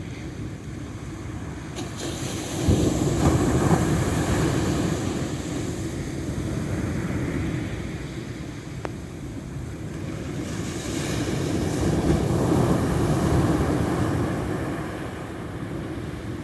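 Ocean waves washing in, swelling twice: about three seconds in and again about eleven seconds in.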